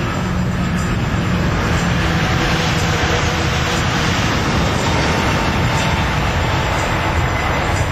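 Four Rolls-Royce Trent 900 turbofans of an Airbus A380 at full takeoff thrust: a loud, steady rushing jet-engine noise.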